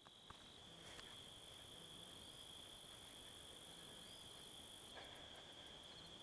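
Faint, steady high-pitched insect chorus, a single unbroken trill.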